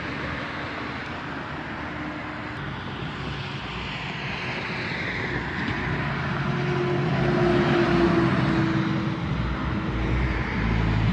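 A truck passing by on a road: engine and tyre noise swell to a peak about eight seconds in, with a slight drop in pitch as it goes past. More traffic noise builds again near the end.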